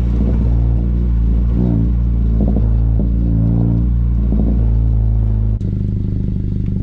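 2017 Honda Civic Si's turbocharged 1.5-litre four-cylinder engine droning through a straight-through MAPerformance race catback exhaust and front pipe, heard from inside the car while it drives. The low drone is steady with a few short rough swells, and its pitch and weight drop suddenly near the end.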